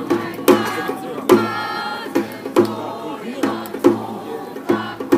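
Korean pungmul folk percussion band playing: drum strokes in a regular rhythm with ringing tones above them.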